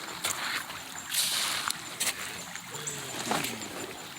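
Shallow creek water splashing and trickling as someone moves through it, with louder surges of splashing and a few sharp clicks.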